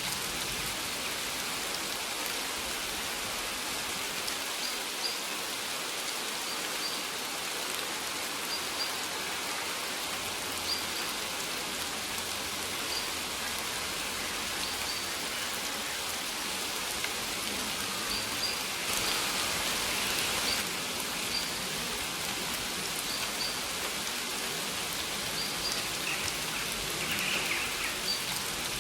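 Steady rainfall, an even hiss of drops, with short high bird chirps repeating every second or two over it. The rain swells briefly about two-thirds of the way in.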